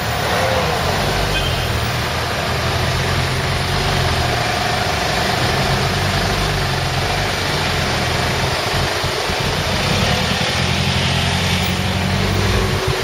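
Lamborghini Gallardo Spyder V10 engines idling, a steady low drone with no revving.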